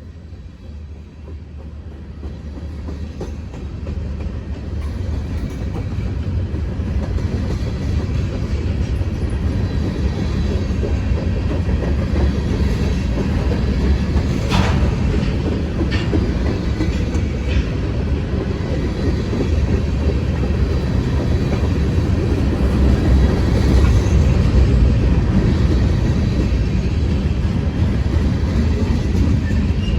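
Freight train hauled by an EMD SD40-2 diesel locomotive running by: a low rumble that grows louder over the first ten seconds or so, then holds steady, with wheels clicking over the rails and a few sharp clicks midway.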